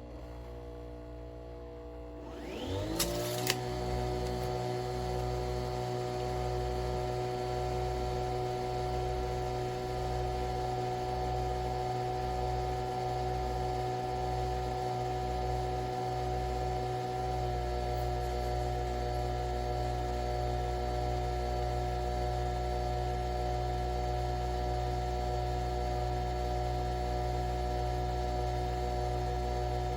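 Nespresso Vertuo Pop+ brewing: its motor spins the capsule up with a rising whir and a couple of clicks about three seconds in, then runs at a steady hum. A low, even pulsing under the hum stops about halfway through.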